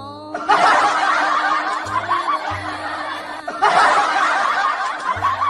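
Laughter, in two long stretches with a short break a little past the middle, over background music.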